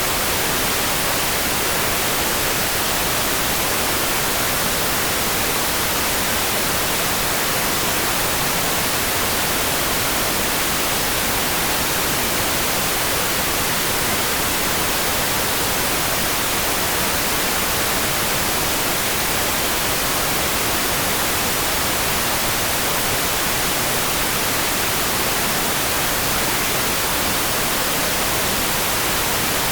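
Steady rain: an even hiss, heavier in the high end, with no single drops, thunder or other events standing out.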